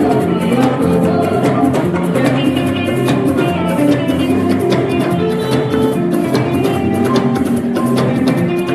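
Band music with electric guitar and drum kit playing a steady, driving dance groove.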